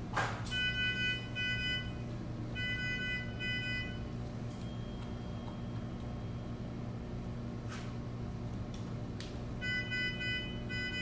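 An electronic alarm beeping in pairs of pitched tones, sounding three times, over a steady low equipment hum.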